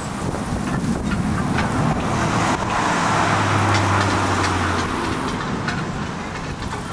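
A road vehicle passing, its noise swelling to a peak about halfway through and then fading.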